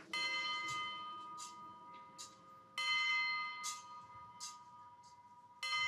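Altar bell struck three times, a stroke every two to three seconds, each ringing with several overtones and fading away. These are the bells that mark the elevation at the consecration of the Mass. Faint short clicks come between the strokes.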